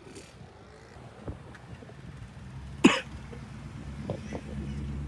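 A car engine running low and steady, growing louder over the last second or so, with one sharp, short, loud sound about three seconds in.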